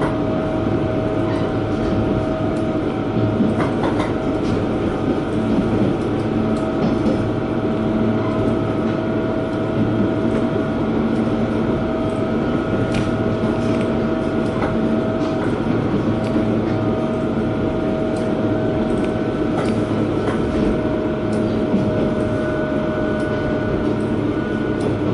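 A KiHa 120 diesel railcar running steadily, heard from inside the cabin. There is a constant engine and running drone with a held whine, and scattered clicks from the wheels over the rail joints.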